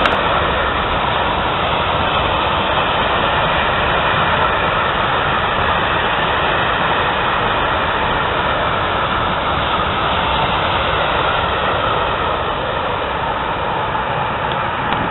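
A train running past, a steady loud rolling noise with a faint steady whine over it.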